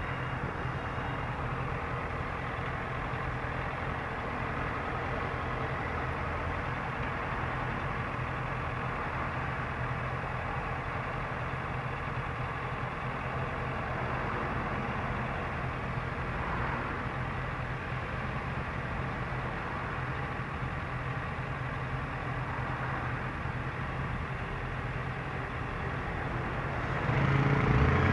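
Motorcycle engine idling steadily in slow traffic, with other vehicles' engines around it. About a second before the end the engine gets clearly louder as the revs rise.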